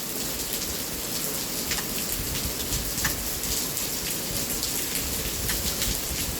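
Steady rain falling, a constant hiss with scattered sharp drop ticks on a nearby surface and a low rumble underneath.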